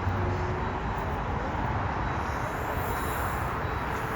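Jet airliner engines, a steady rushing noise with deep rumble, the high hiss growing stronger a little past the middle.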